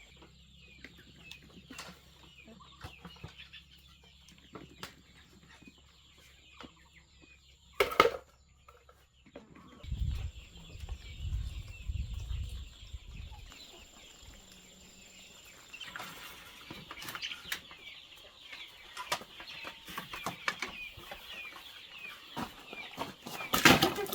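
Chickens clucking and chirping, with many short, high calls throughout. There is a sharp knock about eight seconds in, a low rumble of handling noise a couple of seconds later, and a loud clatter near the end.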